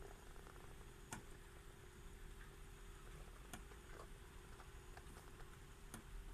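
Near silence: a faint low rumble with a few scattered, irregular faint clicks.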